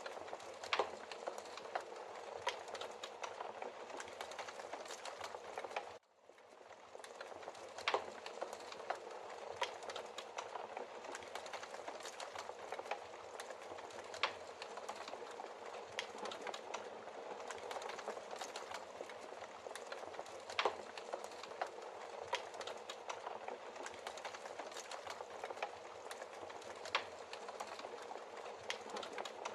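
Wood logs burning in a fireplace: a steady hiss of flame with frequent small crackles and a few sharper pops. About six seconds in the sound cuts out for a moment and fades back in.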